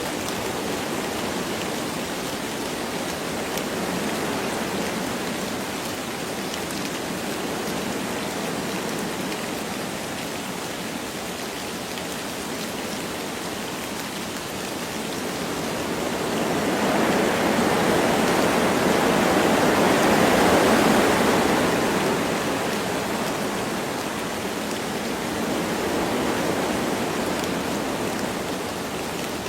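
Wind blowing through forest trees with light rain falling, an even rushing hiss that swells louder for several seconds after the middle, then eases back.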